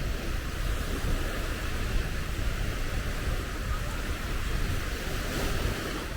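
Waves washing onto a beach, a steady rush of surf, with wind buffeting the microphone in a low rumble.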